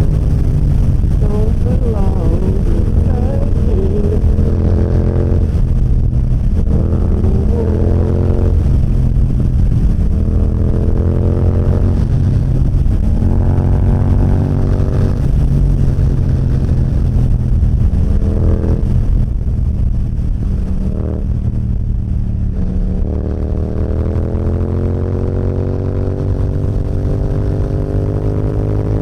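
Yamaha motorcycle engine accelerating, its pitch rising and dropping back several times as it shifts up through the gears, then building in one long steady rise near the end.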